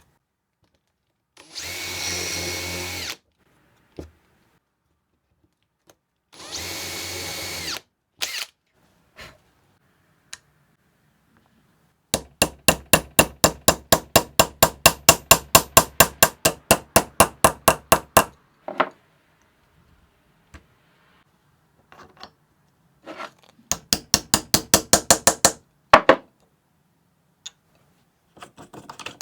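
A small power tool, drill-like, runs twice for about a second and a half each. Then come two runs of rapid, even strokes at about six a second, the first lasting some six seconds and the second about two seconds.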